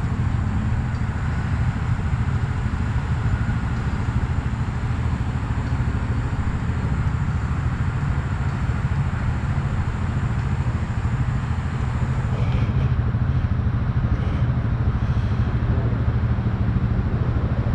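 An engine running steadily at a low, even pitch, a little louder in the last few seconds, with a few faint light ticks partway through.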